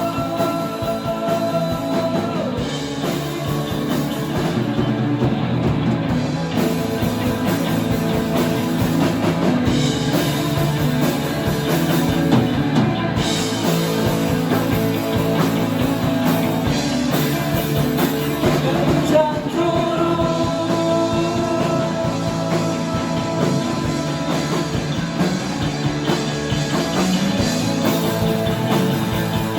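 Rock band playing a song live, full and steady throughout, with long held notes near the start and again through the latter half.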